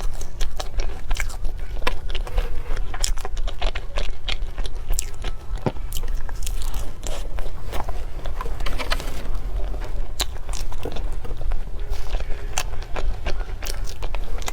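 Close-miked chewing and mouth sounds of someone eating cake: a continuous run of short, irregular clicks, over a steady low hum.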